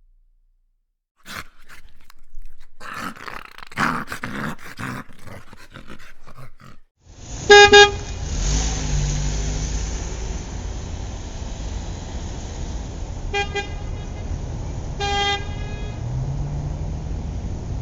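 Car horns honking over the low rumble of road traffic: one loud blast, then two shorter honks several seconds later. Before the traffic starts there are a few seconds of irregular clattering noise.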